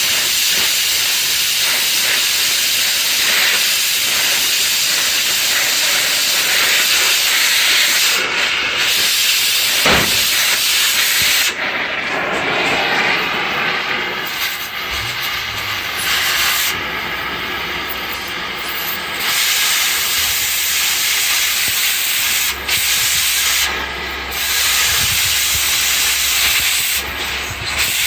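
Cutting torch hissing steadily while cutting steel, its high hiss dipping briefly several times, with a single sharp knock about ten seconds in.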